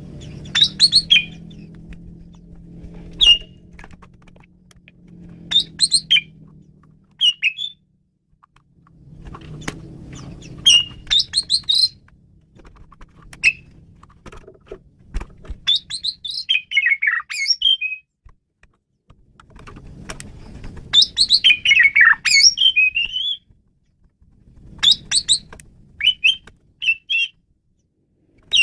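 Asian pied starling (jalak suren) singing in short bursts of chattering and whistled notes with brief pauses between phrases. A low background hum comes and goes under the song.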